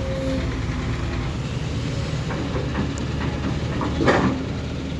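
Heavy diesel engines of six-wheel dump trucks running with a steady low rumble, with a short burst of hiss about four seconds in.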